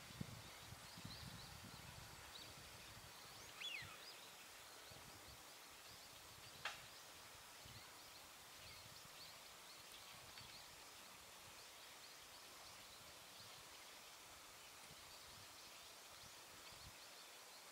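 Faint, scattered high chirps of wild birds over a quiet background hiss, with one downward-sliding call about three and a half seconds in and a single sharp click near seven seconds.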